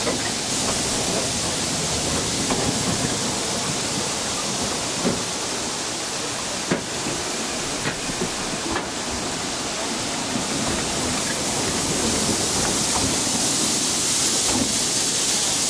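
Steady running noise of a narrow gauge steam railway train heard from a moving carriage: a continuous rush of wheels on rail and passing air, with a few sharp clicks from the track. It grows a little louder near the end.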